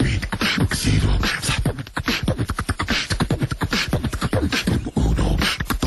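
Human beatboxing: a fast, unbroken run of mouth-made drum sounds, deep kick-like thumps and sharp snare-like clicks and hisses.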